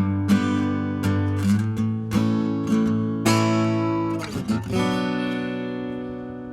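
Acoustic guitar strummed, ending the song on a final chord that rings out and slowly fades from about five seconds in.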